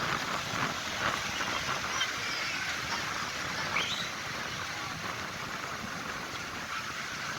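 Tractor engines running, heard as a steady noisy rumble and hiss, with a faint rising squeak about four seconds in.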